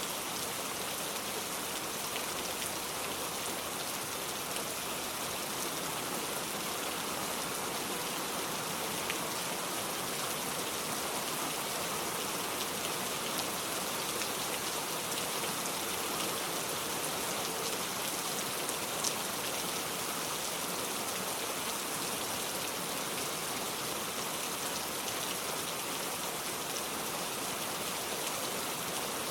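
Steady, even rainfall hissing throughout, with a few faint sharp ticks, one standing out about two-thirds of the way through.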